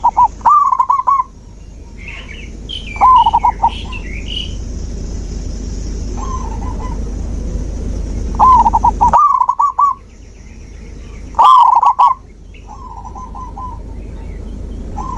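Zebra doves cooing: short phrases of rapid, trilled staccato coos, repeated every few seconds, some loud and close and some fainter as from another dove. Higher chirps from a small bird come in around the third and fourth seconds, over a steady low hum.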